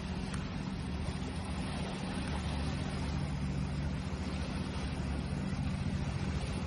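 Steady wash of sea waves, an even rushing noise with a constant low rumble and hum underneath.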